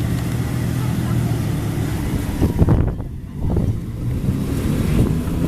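A car engine running steadily, with a few low thumps about halfway through.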